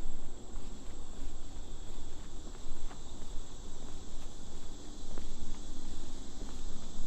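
Steady chorus of insects, a continuous high hiss, over a low, uneven rumble.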